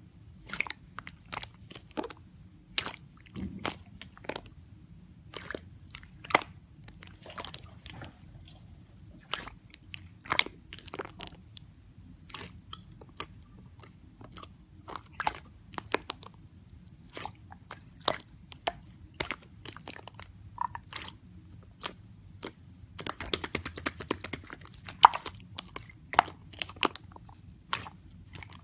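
Slime being pressed and worked by hand, giving irregular sharp clicking and crackling pops, with a dense run of crackles about two thirds of the way through.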